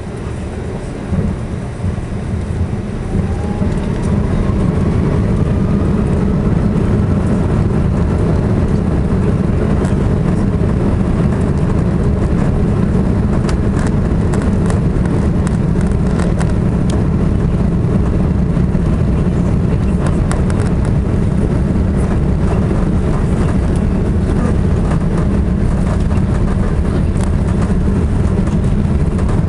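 Four Rolls-Royce Trent 500 engines of an Airbus A340-600 spooling up to takeoff thrust, heard from inside the cabin. A whine rises in pitch over the first several seconds. It gives way to a steady heavy rumble as the airliner rolls down the runway, with scattered clicks and rattles partway through.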